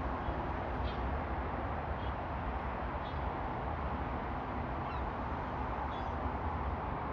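Birds calling in short, scattered cries about once a second, over a steady background noise with a low rumble.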